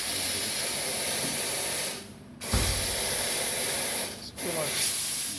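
Espresso machine steam wand blowing off steam in three hissing blasts, each cut off after a second or two, with a low thump as the second one opens.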